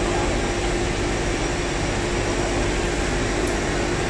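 Steady industrial machinery noise: a constant hum and rush with one held tone, unchanging throughout.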